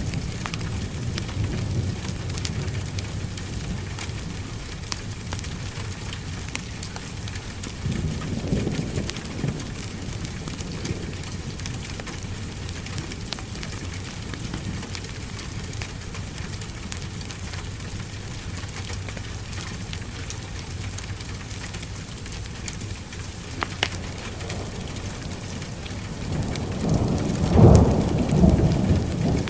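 Steady rain hissing, with thunder rumbling low twice: once about a third of the way in, and louder near the end. A few sharp fireplace crackles sound over the rain.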